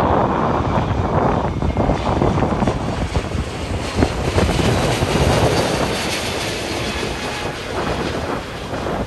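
Airliner's jet engines passing low overhead: a loud, steady rushing roar that eases slightly in the second half.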